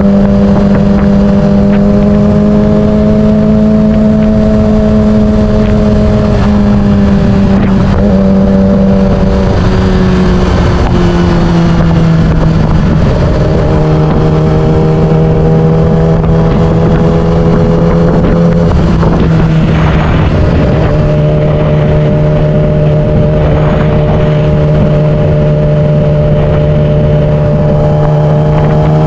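Yamaha R6 inline-four engine running at a steady cruise, its pitch easing down in small steps about a third and two-thirds of the way in. Wind noise rushes over the microphone throughout.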